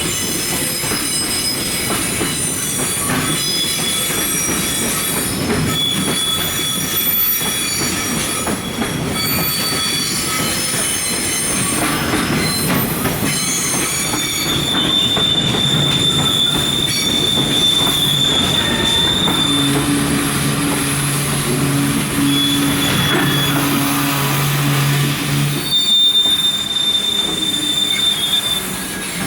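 A freight train of Koki container wagons rolling into a station, its wheels and brakes giving a high, shifting squeal over a steady rumble. Past the middle a low steady hum sets in for about six seconds, then cuts off abruptly.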